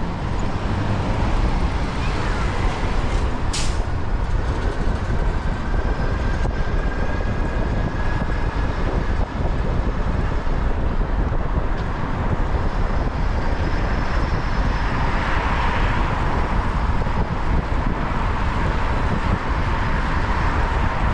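City street traffic heard from a moving bicycle, with heavy wind rumble on the microphone. A short sharp hiss comes about three and a half seconds in.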